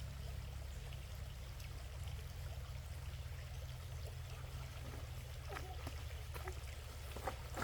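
Water running steadily, with a steady low rumble underneath and a few light clicks or knocks near the end.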